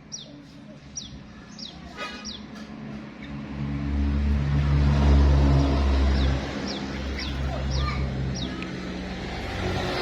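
A sooty-headed bulbul (kutilang) giving short, quickly falling chirps, several in a row at the start and again later. A motor vehicle's engine passes, swelling loud about four seconds in and fading after about six.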